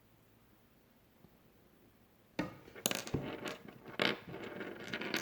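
Near silence, then about two and a half seconds in, a run of irregular clicks and clatters as small hard objects are handled on a surface.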